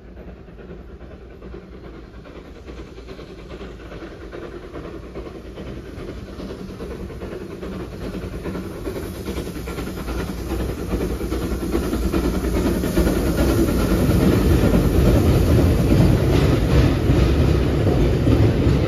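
Heritage railway passenger train approaching and running across a bridge overhead, growing steadily louder throughout. In the last few seconds the wheels clatter over the rail joints.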